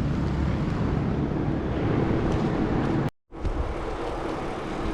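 Steady road-traffic rumble and wind noise on the microphone of a moving bicycle, with a brief total dropout about three seconds in.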